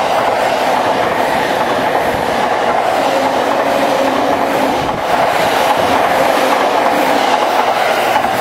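JR Yamanote line electric commuter train passing close by: a loud, steady rush of wheel and track noise with a steady hum running through it, dipping briefly about five seconds in.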